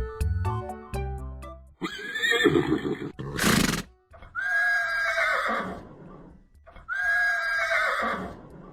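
Horse whinnying. After a rough first call and a short, loud, noisy blow of breath, it gives two long whinnies, each about a second and a half.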